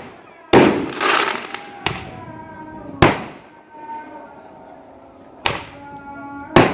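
Fireworks going off: five sharp bangs, the first about half a second in followed by a second of crackling, the others near two, three, five and a half and six and a half seconds.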